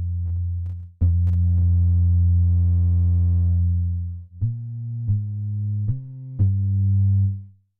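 Teenage Engineering OP-1 Field synthesizer playing low bass notes with a few sharp clicks near the start. A long note is held for about three seconds, then four shorter notes step between pitches. The last note is held and fades out quickly about seven seconds in.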